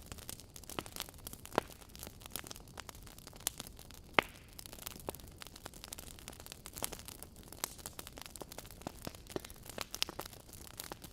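Wood fire in a fireplace crackling: irregular pops and snaps over a low steady hiss, with two sharper pops about one and a half and four seconds in.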